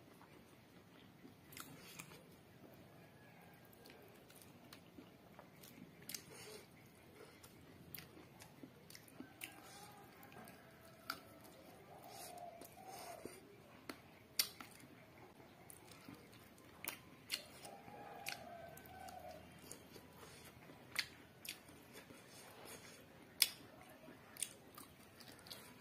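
Close-up eating sounds: chewing of chicken and rice with wet mouth smacks and sharp, irregular clicks.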